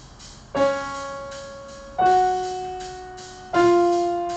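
Piano playing a slow pattern of three single notes in F-sharp major, about a second and a half apart, each struck and left to ring and fade. It is a short pattern for students to listen to and play back.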